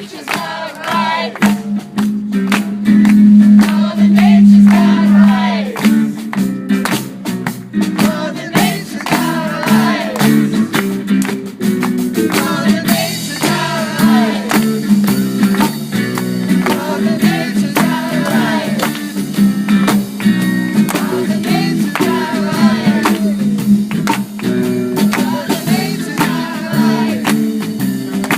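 Live band music with guitar and percussion, and singing over it.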